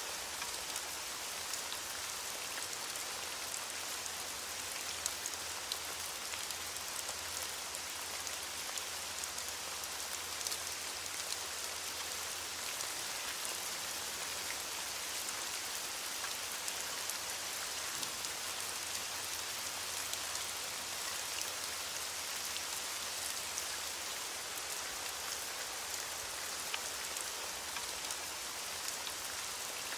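Steady heavy rain falling, an even hiss with countless small drop patters on a surface.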